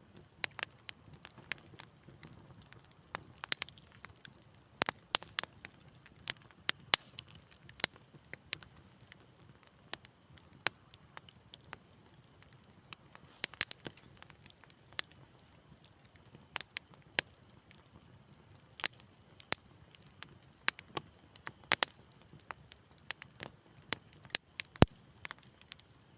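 Wood fire crackling: irregular sharp pops and snaps, some close together and some spaced out, over a faint low rumble of the burning fire.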